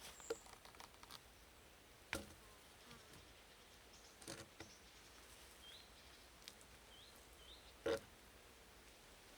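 A few faint, short knocks and clicks, the loudest near the end, over a quiet hiss, with three brief high rising chirps in the second half.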